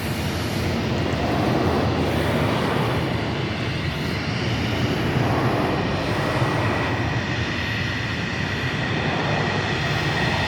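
Jet engines of an Airbus A320 running loudly and steadily as a rushing noise, with a high whine that grows clearer toward the end; very noisy.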